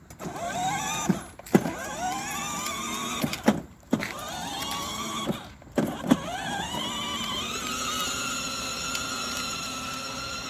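Electric motor of a battery-powered ride-on toy police car whining as it starts and speeds up several times, each start marked by a sharp click, then running steadily from about seven seconds in.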